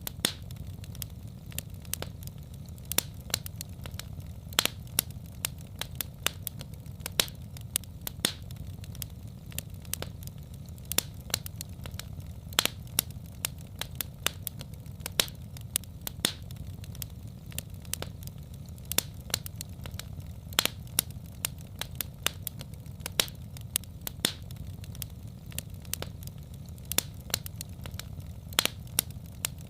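Wood fire in a fireplace crackling, with sharp irregular pops several times a second over a steady low rumble of the flames.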